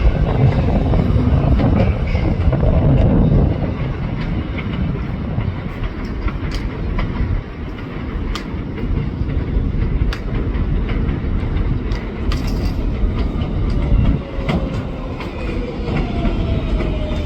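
A 7 train on the elevated IRT Flushing Line, R188 subway cars running along the track. A heavy rumble for the first few seconds settles into a steadier run with many sharp clicks of the wheels over rail joints. Near the end a tone slowly falls in pitch.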